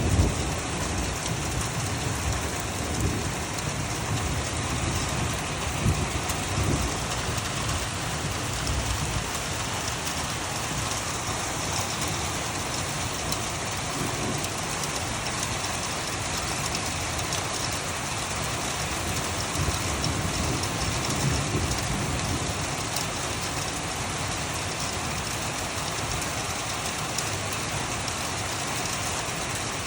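Steady rain falling: an even, continuous hiss, with a few short low rumbles in the first few seconds.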